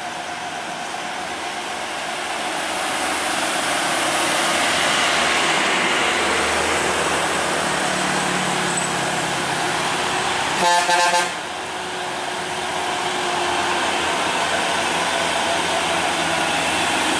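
Heavy truck engine running under load on a steep climb, growing louder over the first few seconds. A vehicle horn sounds once, briefly, about ten and a half seconds in, the loudest moment.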